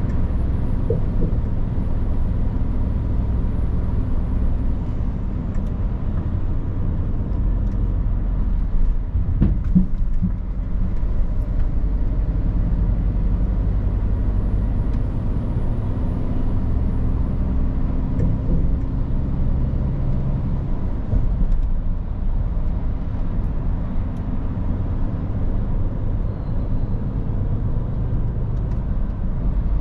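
Scania R450 truck's diesel engine running with tyre and road noise while driving: a steady low drone whose engine note changes a few times with load and speed. There is a brief knock about nine and a half seconds in.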